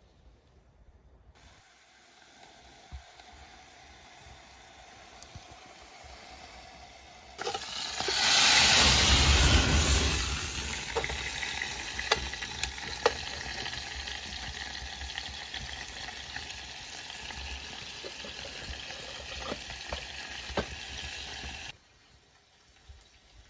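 Food sizzling in a hot pan: a faint hiss that jumps suddenly to a loud sizzle about seven seconds in, then settles into a steady sizzle with scattered pops, and stops abruptly near the end.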